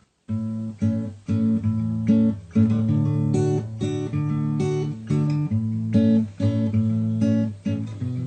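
Solo acoustic guitar playing an instrumental intro: a rhythmic pattern of chords, starting about a third of a second in.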